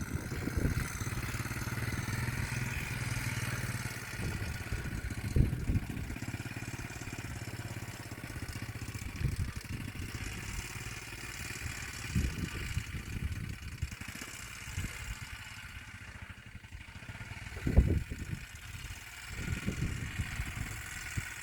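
A 1987 quad bike's engine running steadily at low revs, its low hum clearest in the first few seconds, with a few brief low thumps.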